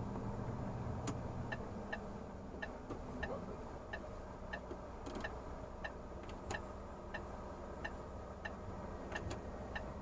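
Truck turn-signal indicator ticking steadily, a little under two ticks a second, starting about two seconds in, heard inside the cab of a Renault Magnum truck over the low running of its engine.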